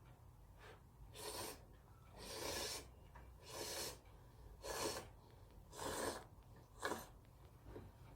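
Six short slurps of cup ramen noodles, about one a second.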